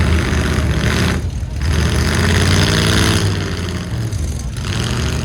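Full-size pickup truck engines running loudly, with one revving up and back down in the middle.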